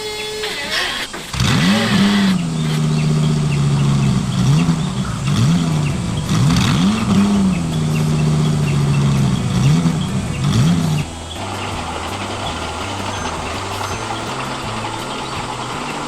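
Engine sound revving up, holding and dropping back several times in a row, then settling to a steadier, lower running about eleven seconds in.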